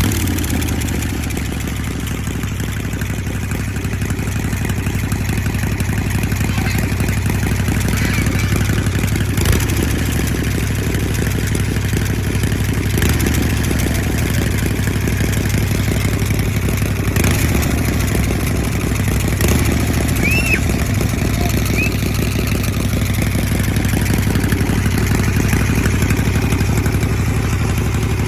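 Harley-Davidson FLH Shovelhead's air-cooled V-twin engine running steadily at a low speed, with a loping beat and only slight rises and falls in level.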